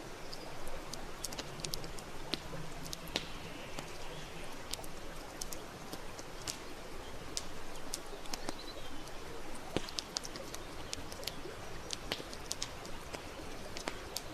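Campfire crackling, with sharp pops at irregular moments over a steady hiss. A bird calls in the background during the first few seconds.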